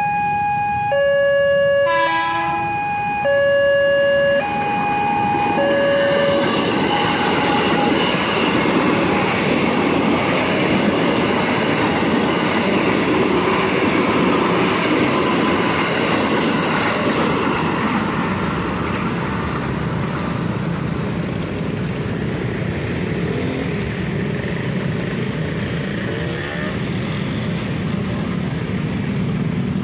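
KRL commuter electric train passing close by on the track. For the first several seconds a two-tone warning signal sounds in alternating blasts, about one a second, with a sharp click about two seconds in. The train's running noise and wheel clatter then take over and slowly ease off toward the end.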